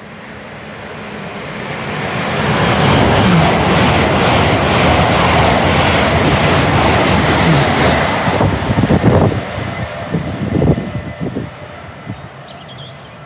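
A GWR Intercity Express Train (Class 800-series) passing through the station at speed. A rush of noise builds over about three seconds and holds loud for several seconds. It then breaks into uneven pulses as the rear of the train goes by, and fades away.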